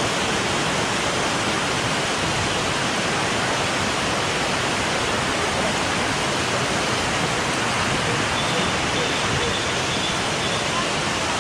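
Waterfall water rushing, a loud steady wash of noise.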